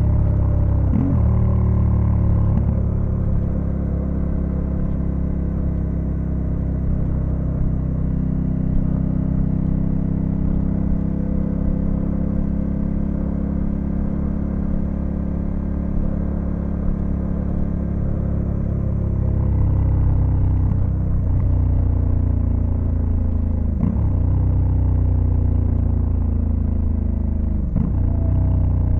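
Honda Africa Twin CRF1100L's parallel-twin engine running on the move. It shifts gear once or twice near the start and then cruises at a steady speed for a long stretch. In the last third it accelerates through the gears, climbing in pitch with a sudden drop at each of three upshifts.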